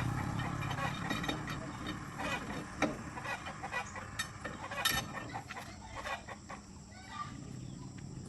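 Chickens clucking, with scattered sharp clicks and knocks throughout and a low engine-like hum fading out in the first second.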